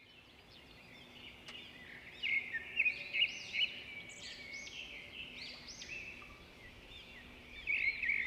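Birds singing: a run of quick, arching chirps, loudest from about two to four seconds in and again near the end, over a faint steady hum.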